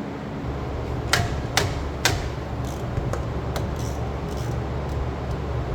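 Metal tools knocking and clicking during hands-on work on a truck's front suspension: three sharp knocks about half a second apart, then lighter scattered ticks, over a steady low hum.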